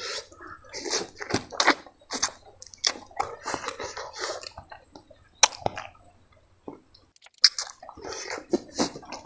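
Close-miked mouth sounds of a man eating curry by hand: wet chewing and lip-smacking in quick, irregular clicks, with a short lull about two-thirds of the way through.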